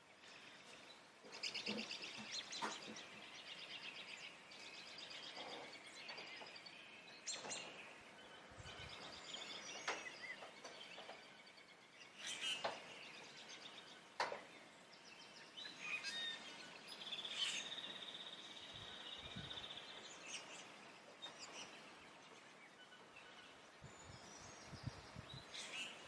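Spring songbirds singing in a mixed chorus: overlapping chirps, whistled phrases and rapid trills, with one long, even trill a little past the middle.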